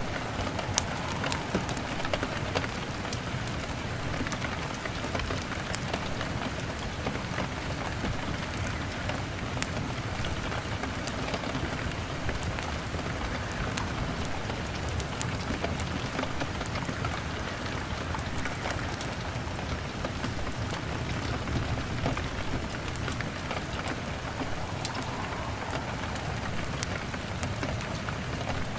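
Steady rain on a window glass, with many small, sharp crackles from a wood fire scattered throughout.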